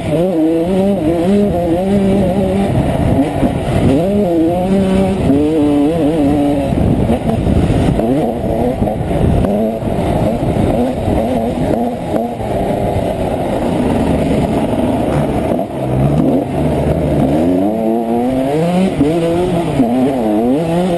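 Honda CR125 two-stroke single-cylinder motocross engine revving hard, its pitch climbing and dropping again and again as the rider accelerates, shifts and backs off, with wind rumble on the bike- or helmet-mounted camera.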